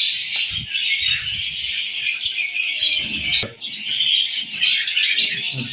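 Many small aviary birds chirping and chattering continuously together, with a few short low bumps underneath.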